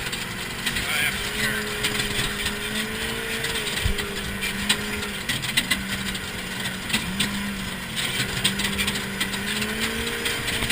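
A vehicle engine runs at a held, steady pitch over a constant rush of wind and rough-ground noise. The pitch dips briefly a few times and rises again, as the throttle eases off and comes back on.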